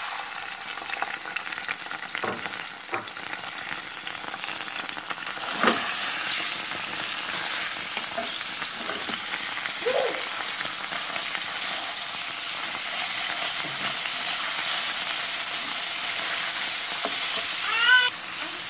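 Marinated chicken sizzling in hot oil in a frying pan, stirred with a wooden spatula, with a few knocks along the way; the sizzle grows louder and steadier about five seconds in. A short run of high chirps near the end.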